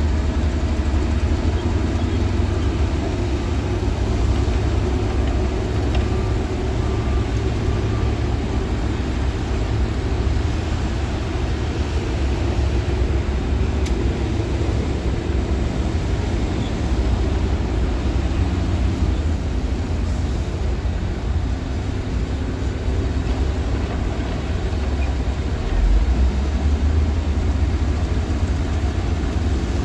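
Diesel engine of a Shantui DH17-C2 bulldozer running steadily under load with a deep low rumble, swelling briefly near the end.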